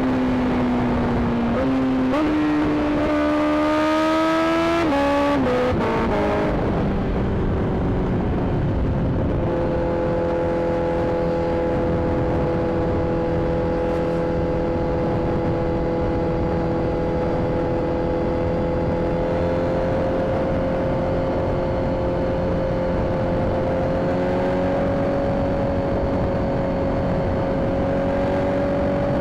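Inline-four sportbike engine heard from on the bike over wind rush. The revs climb in steps over the first few seconds and drop away about five to six seconds in. It then holds a steady cruising note that rises slowly.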